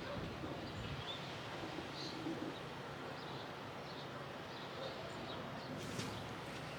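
Quiet outdoor background noise with a few faint, short bird chirps scattered through it.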